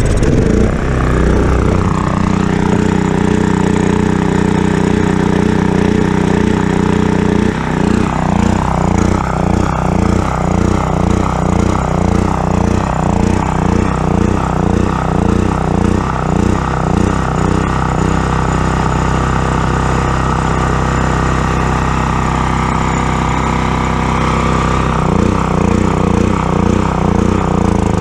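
Predator 6500 generator's single-cylinder engine running: steady at first, then from about eight seconds in it starts hunting, surging up and down in a quick rhythm, settles for a while, and surges again near the end. The hunting is what the owner shows with the choke fully off and blames on the worn original carburetor, which a little choke smooths out.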